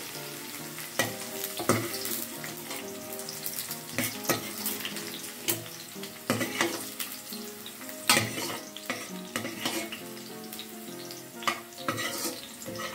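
Hot oil sizzling in a stainless steel wok as fried shallots, garlic, chillies and galangal are scooped out with a perforated metal spatula. The spatula clicks and scrapes against the pan about eight times.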